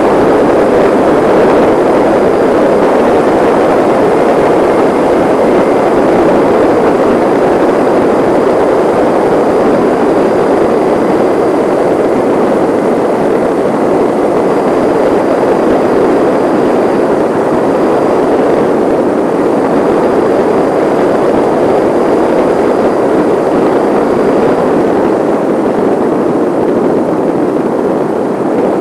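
Steady, loud rushing noise of wind and road while riding at speed, with no clear engine tone and no changes.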